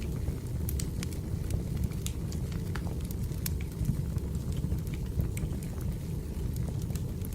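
Wood fire crackling: a steady low rumble of burning logs with frequent irregular snaps and pops.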